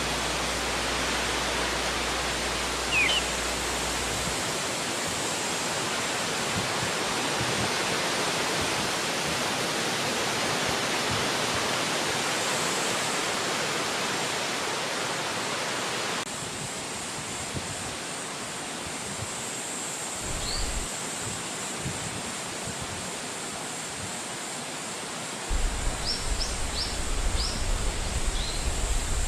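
Wind blowing through forest trees: a steady rushing hiss that drops in level about halfway through. A few short bird chirps come through it, with a cluster of them near the end, along with low rumbling gusts.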